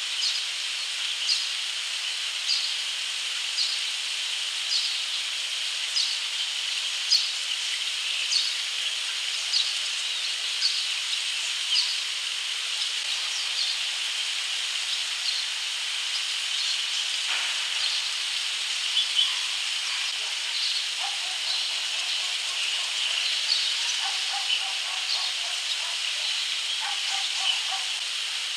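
Birds chirping over a steady high hiss: short high chirps repeat about once a second through the first twelve seconds or so, then come more sparsely. From about twenty seconds in, a lower, quicker series of notes joins them.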